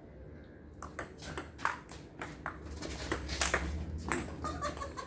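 Table tennis ball being hit back and forth in a rally: a quick run of sharp clicks off bats and table, starting about a second in.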